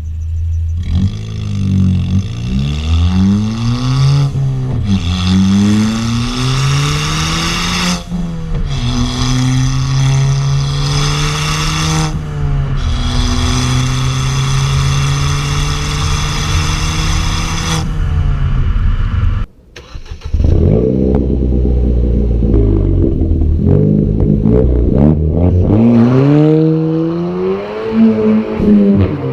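Ford Fiesta ST Mk7's turbocharged 1.6-litre EcoBoost four-cylinder engine and exhaust under hard acceleration. The revs climb and fall back several times through the gear changes, then hold steady for a few seconds. After a sudden brief cutout about twenty seconds in, the engine revs up and down again repeatedly.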